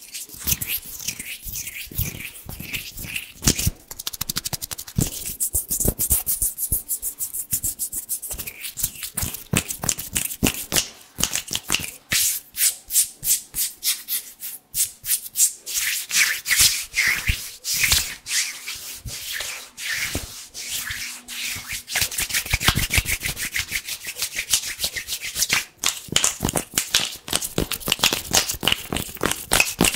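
Hands rubbed together fast and hard, close to the microphone: a quick, unbroken run of dry, crispy rubbing strokes.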